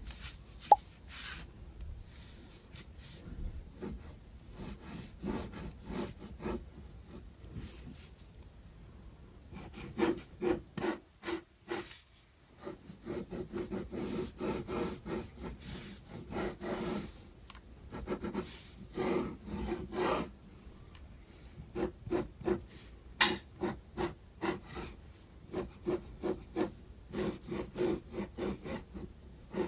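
Graphite pencil scratching across sketchbook paper in runs of quick back-and-forth shading strokes, broken by short pauses. A single sharp tick sounds less than a second in.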